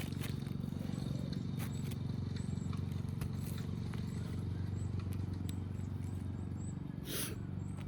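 A steady low machine hum in the background, with faint high chirping from small birds. Light clicks and one short scrape about seven seconds in come from a new asphalt roof shingle being slid into place.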